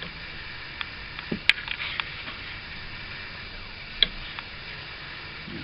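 Scattered sharp clicks and light taps, a few seconds apart, the loudest about one and a half seconds in, over a steady low hiss.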